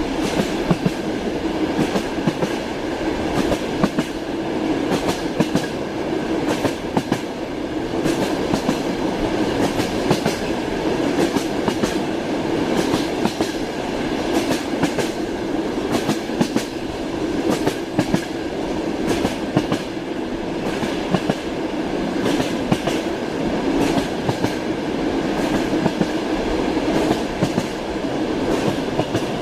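Passenger train running at speed, its wheels clattering over the rail joints over a steady rumble.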